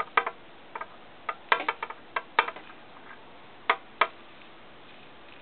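Irregular light clicks and taps, some with a short ringing tone, in a handful of quick clusters: small hard containers being handled and tapped while sparkling powder is poured into a homemade firework tube.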